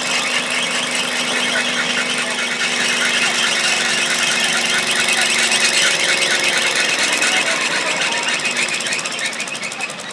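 Garden tractor engine running hard under load while pulling a stoneboat, with a high squealing rattle over the engine note; it builds slightly to about six seconds in, then eases off near the end.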